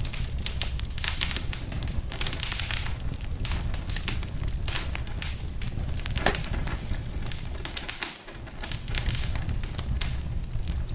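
Wood fire in a fireplace crackling, with frequent irregular sharp pops over a low steady rumble of flames.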